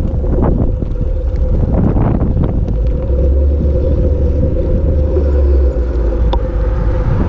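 Wind rumbling on the microphone while riding a bicycle, with a steady hum and the odd faint click underneath.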